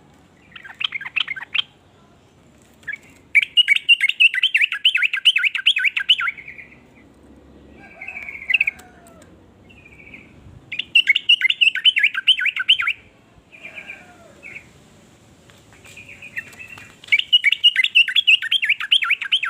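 Yellow-vented bulbul (trucukan) singing: three runs of rapid, bubbling notes, each two to three seconds long, with short single calls between them.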